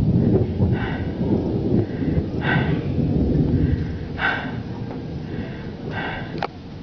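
Heavy breathing close to the microphone, a breath about every second and a half, over a loud low rumble that eases after the first few seconds.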